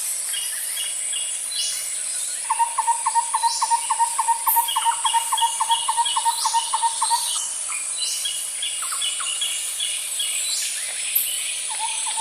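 Birds calling over a steady high insect drone. One bird gives a rapid run of short, evenly spaced notes, about four a second, that starts a couple of seconds in and returns near the end, while other birds add higher repeated chirps and downward-sliding calls.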